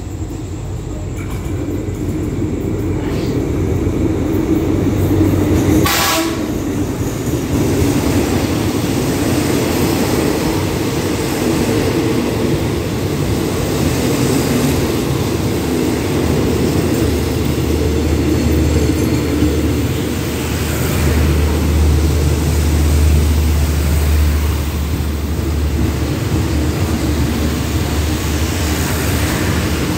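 Diesel-hauled express passenger train pulling into a station: the rumble builds as the locomotive arrives and runs past, then the coaches roll by with wheels clattering on the rails as it slows to stop. A brief sharp sound cuts through about six seconds in, and a low steady hum runs under the passing coaches for several seconds later on.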